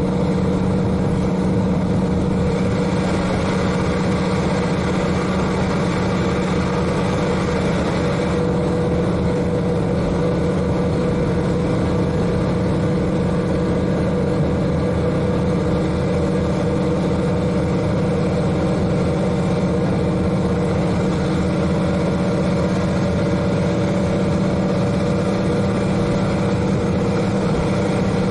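Diesel railcar's N-DMF13HZI six-cylinder turbocharged diesel engine running steadily at a constant pitch, heard from directly above the engine, with running noise from the moving car.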